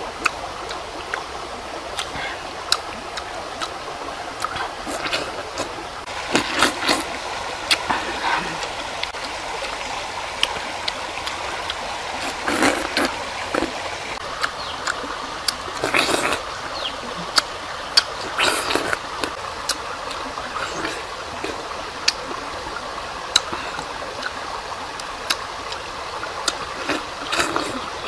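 Bites and chewing of fresh pineapple in several bursts, with many sharp mouth clicks, over the steady rush of a stream.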